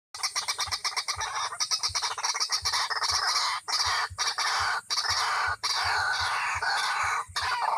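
White-breasted waterhens (ruak-ruak) calling: a dense, unbroken run of fast, repeated harsh calls, with a few brief breaks.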